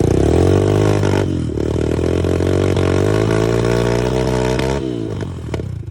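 140cc single-cylinder four-stroke dirt bike engine revving: the pitch climbs, dips briefly about a second in, holds high, then falls away near the end and drops off sharply.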